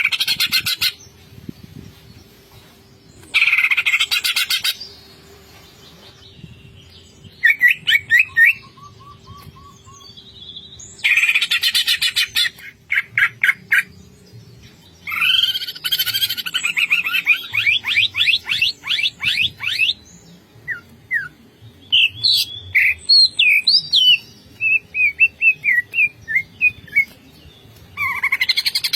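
Green leafbird (cucak ijo) singing in bursts of varied phrases: fast trills, chirps and whistled glides, with short pauses between them.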